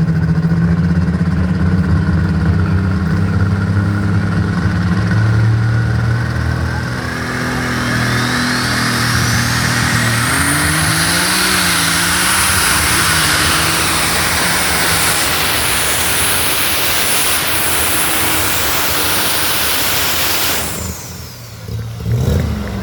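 Super stock pulling tractor engine running at full throttle through a pull. After a steady start, a turbocharger whine climbs over several seconds and holds high under a loud engine roar. The roar cuts off suddenly near the end as the throttle is shut.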